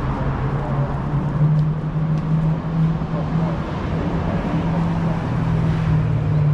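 City street traffic, with a vehicle engine running close by as a steady low drone.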